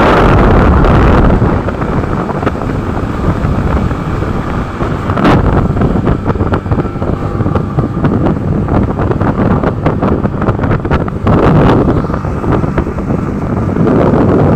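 Wind buffeting the microphone of a moving motorcycle, with vehicle and road noise underneath. The wind noise is loud and uneven, with gusts swelling and easing.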